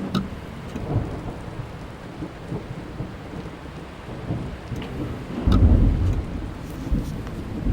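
Rain falling on a car's body and glass, heard from inside the car, with scattered sharp drop ticks. About five and a half seconds in, a loud low rumble of thunder rolls in and carries on.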